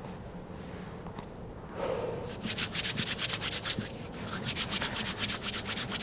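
Rapid rhythmic scraping or brushing, about ten strokes a second, starting about two seconds in, with a short break partway through.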